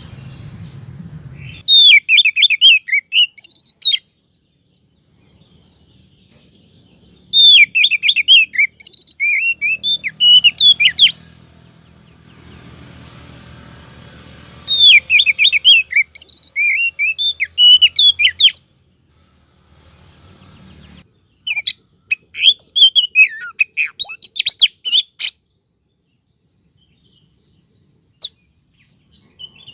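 Oriental magpie-robin calls, the female 'sweetener' sounds played as a lure to draw in males: four bursts of quick, varied chirps and whistles, several seconds apart.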